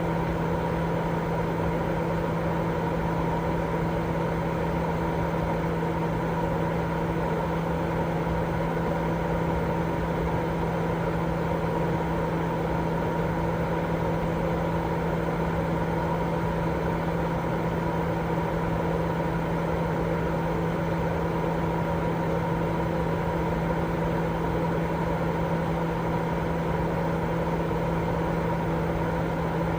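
Continuous baby-sleep white noise: a steady, even rushing noise with a low hum and a few fixed tones beneath it, unchanging throughout.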